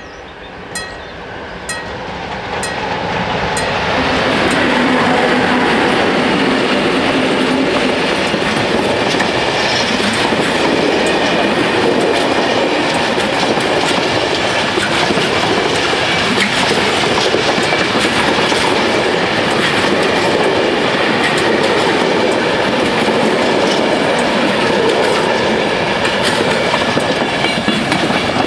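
Freight train of flat wagons passing over a level crossing on the rails, building up over the first four seconds and then loud and steady. At the start the crossing bell strikes about once a second before the train covers it.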